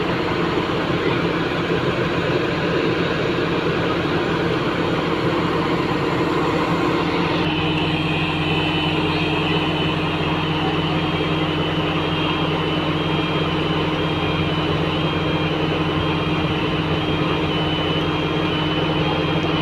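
Heavy construction machine's diesel engine running steadily. About a third of the way in, an electronic warning alarm starts up, repeating high beeps that alternate between two pitches, over the engine.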